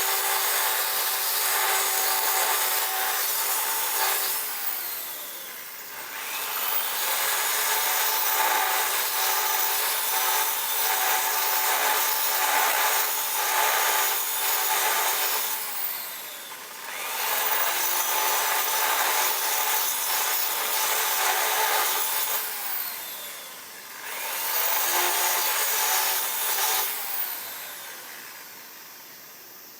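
A power tool running against a workpiece in three long stretches, easing off briefly about five, sixteen and twenty-three seconds in, then dying away near the end.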